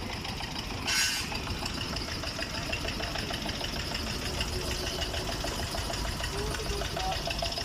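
An engine idling steadily, with a rapid regular ticking that grows clearer after the middle; a brief hiss about a second in.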